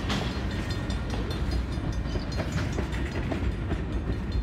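Train cars rolling past at close range: a steady low rumble with rapid clicking of the wheels over the rails.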